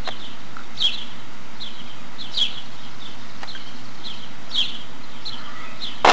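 A small bird chirping over and over, short falling chirps about twice a second, over a steady hiss. A sharp knock comes right at the end.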